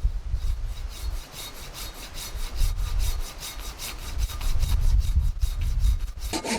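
Hand saw cutting through a piece of wood in quick, even back-and-forth strokes, with a low rumble of the wood and saw being handled.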